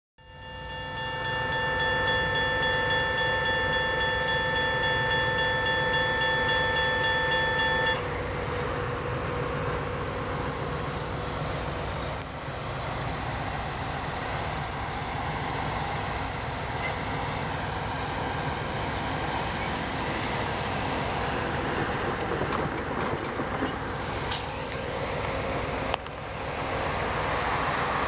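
Amtrak diesel locomotive's horn sounding one long steady multi-tone chord for about eight seconds, then cutting off; after that the train rumbles past steadily, with a thin high ringing tone for a while in the middle.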